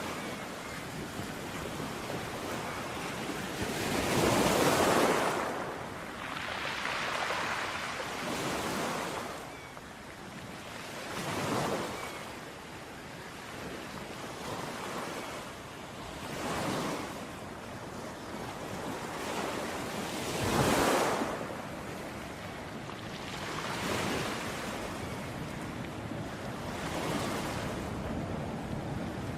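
Ocean waves breaking on a shore, each swell of surf rising and washing away every few seconds over a steady hiss of water, with the biggest breakers at about four seconds in and again about twenty seconds in.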